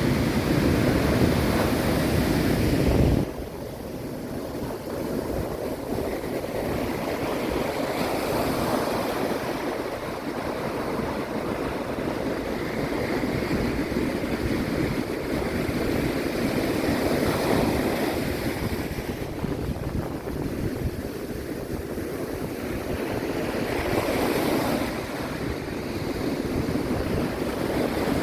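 Ocean surf and wind, with waves swelling and easing every few seconds. The sound drops suddenly about three seconds in.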